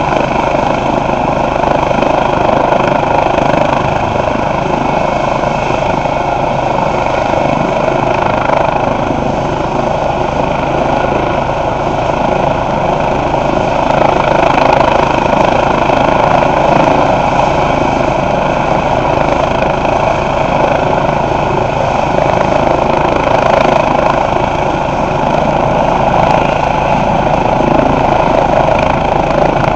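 Eurocopter EC135 twin-turbine police helicopter running steadily, a continuous turbine whine and rotor noise that holds the same pitch throughout.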